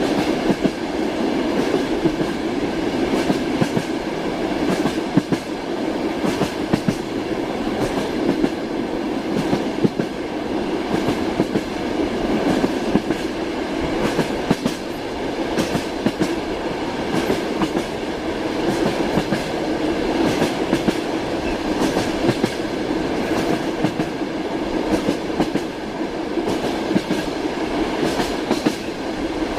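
Train wheels clattering over rail joints with a steady rolling rumble as the train runs along the line, the clicks coming often and unevenly.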